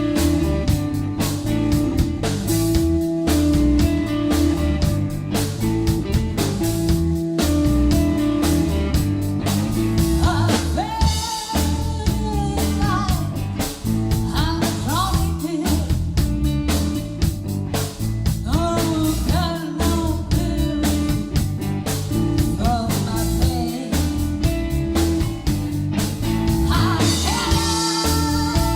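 Rock-blues band playing: electric guitar, bass guitar and drum kit with a steady beat, and a woman's singing voice coming in about a third of the way through.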